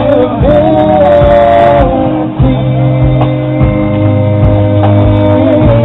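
Live rock band playing: long held notes over a steady bass line and drum beat. The recording is dull, with nothing above the upper mids.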